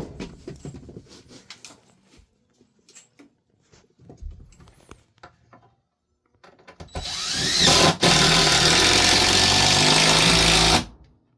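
Light knocks and clicks of handwork, then about seven seconds in a power tool's motor spins up with a rising whine, runs loud for about four seconds with a brief break, and stops.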